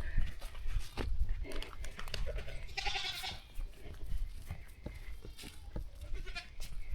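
A goat bleats once, about three seconds in, among scattered short knocks.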